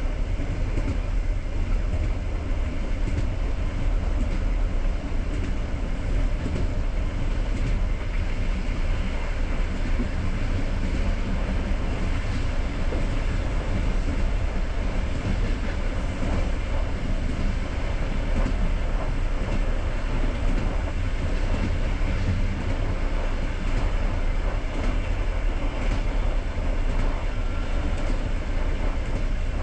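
Passenger train coach rolling along the line, heard from on board: a steady low rumble of wheels on rails with a few faint clicks.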